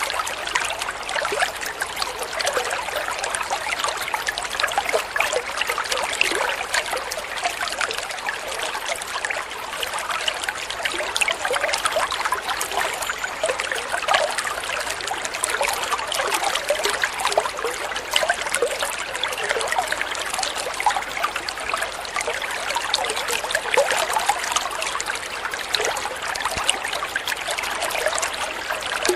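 Water flowing and trickling steadily, with a busy patter of small splashes and gurgles and no pauses.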